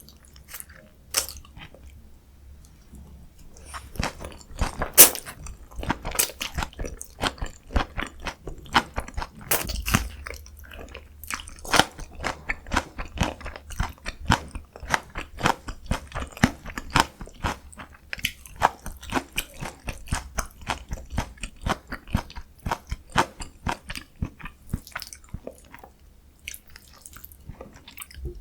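Close-miked eating: a person bites and chews food with a run of crisp, wet crunches and mouth clicks, several a second. The loudest crunches come about five and ten seconds in.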